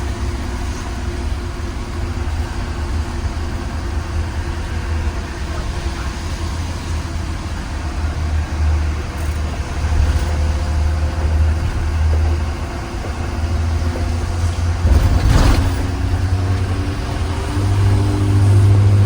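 2020 Blue Bird Vision school bus underway, heard from inside: a steady low engine and road rumble. A brief loud rattle or thump comes about fifteen seconds in, and near the end the engine pitch rises as the bus pulls harder.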